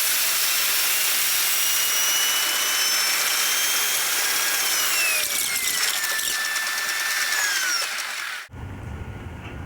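A train running, with a loud hiss and a high whine that glides down in pitch over several seconds. The sound cuts off abruptly near the end, replaced by a quieter low rumble.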